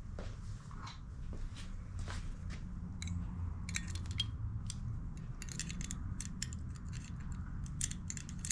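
Light metallic clicks and taps of small hand tools on carburetor parts during disassembly, coming thicker from about three seconds in, over a steady low hum.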